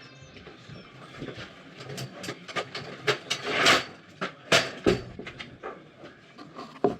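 Irregular knocks and clatters of hands-on building work, boards and tools being handled and set in place. A brief scraping rush comes about midway, and a last knock falls near the end.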